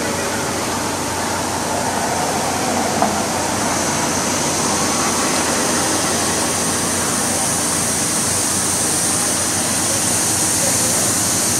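Steady hiss and low hum from a stationary passenger train idling at the platform, with one short click about three seconds in.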